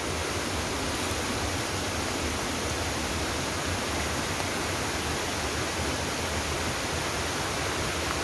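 Small waterfall rushing steadily: an even, unbroken roar of falling water.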